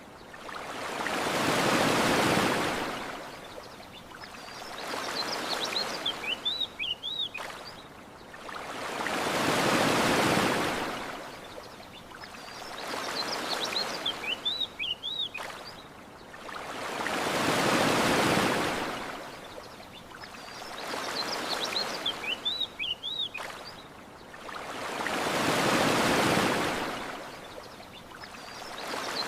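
Ocean waves surging and washing up a beach in a slow, even rhythm, with a big surge about every eight seconds and a smaller one between. Short bird chirps repeat in the lulls between waves.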